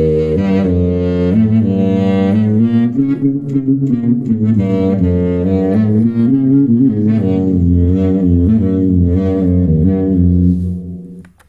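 A low melodic phrase of held notes played through a Zoom B1Xon multi-effects pedal on its trombone-like "Trombo" patch, stopping near the end.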